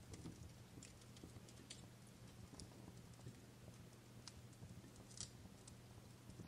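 Fireplace fire crackling faintly: scattered, irregular sharp pops and snaps, the loudest about five seconds in, over a steady low hum.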